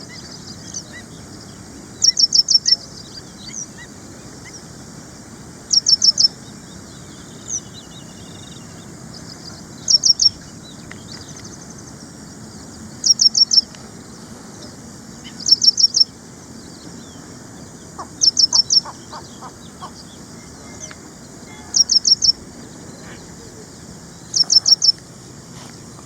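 Ashy prinia calling: a short, rapid phrase of four or five high notes, repeated about every three to four seconds.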